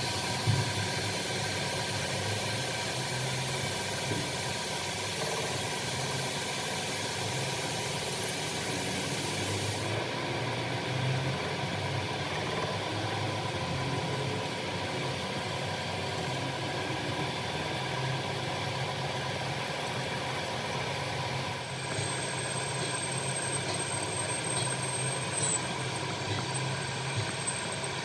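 Workshop machine running steadily with a constant hum and several held tones. Its sound shifts about ten seconds in and again a little past twenty seconds.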